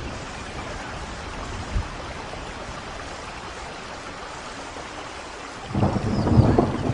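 Steady rain hiss; near the end a sudden, much louder low rumble sets in and continues.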